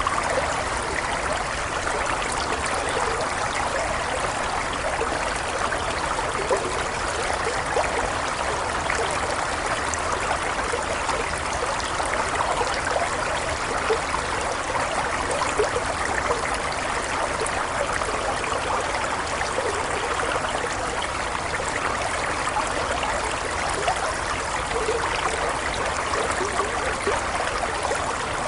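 Running water of a stream, flowing in a steady, even rush.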